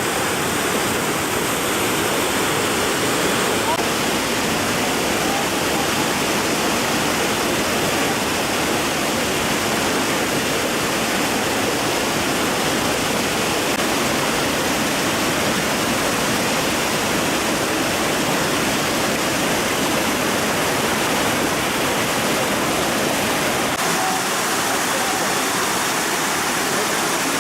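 Waterfall: water pouring and rushing in a steady, loud, even roar of noise.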